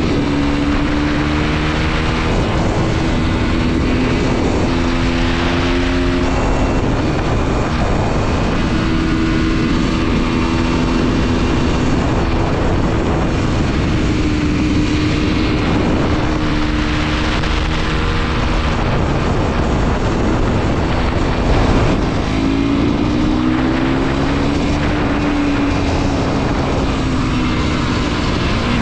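Mondial SMX 125 motorcycle's single-cylinder engine under way, its revs climbing and dropping again and again as it runs through the gears, over heavy wind rush on the camera microphone.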